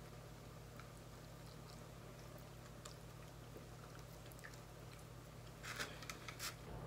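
Quiet chewing and small wet eating sounds as baked chicken is bitten and pulled apart by hand, over a low steady hum. About six seconds in comes a short burst of louder crackles as fingers reach into the aluminium foil holding the food.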